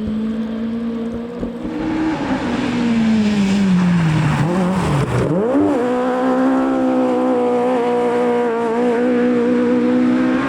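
Rally car engine on a forest stage: revs held steady, then falling for a few seconds as the car slows, a quick dip and sharp rise in revs about five seconds in, then a steady higher engine note with the car under power.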